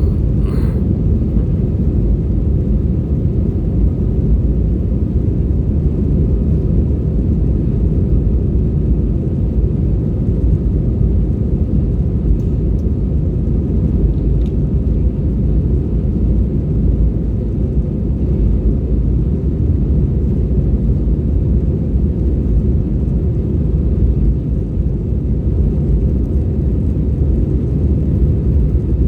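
Steady low rumble of a Batik Air Airbus jet airliner in flight: engine and airflow noise holding at an even level.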